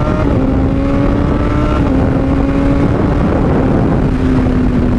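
Honda CBR600RR's inline-four engine breathing through an aftermarket Toce exhaust, running at fairly steady revs under way, its pitch easing slightly lower with a couple of small dips. A rush of wind noise runs under it.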